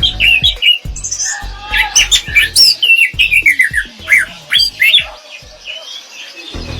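Orange-headed thrush singing a fast, varied run of short whistled and twittering notes with quick rises and falls in pitch, going quieter about five seconds in.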